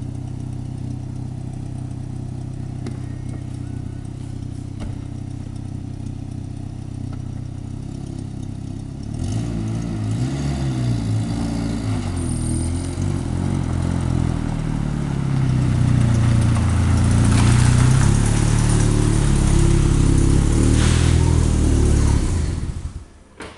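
Vehicle engine idling steadily, then pulling away and being driven, its revs rising and falling and the sound getting louder. It cuts off abruptly near the end.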